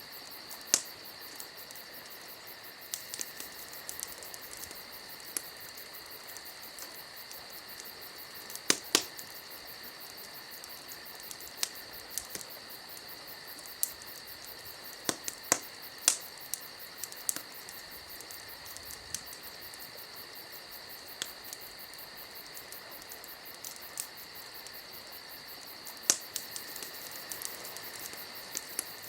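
A steady, high, insect-like chirring with scattered sharp crackles and pops over it, the loudest near nine, sixteen and twenty-six seconds in.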